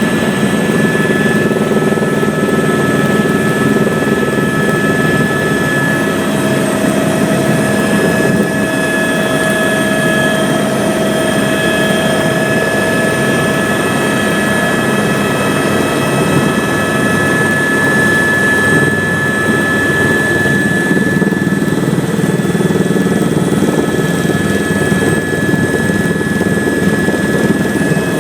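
Eurocopter AS350 A-Star helicopter heard from inside the cabin: the single turbine's steady high whine over the dense drone of the rotor and airframe, unchanging throughout.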